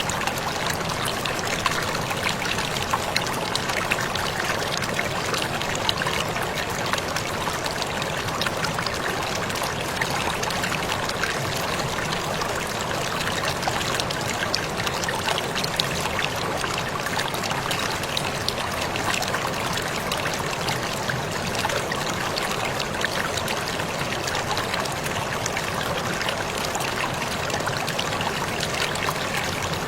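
Waterfall pouring steadily: a continuous rush of falling water, flecked with many small splashes and drips.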